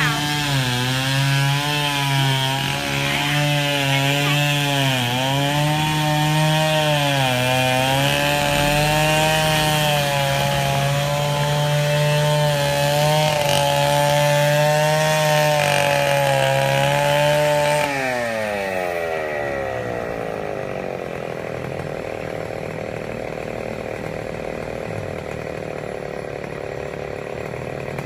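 A small engine running fast, its speed wavering a little. About two-thirds of the way through it slows smoothly and settles at a lower, quieter speed.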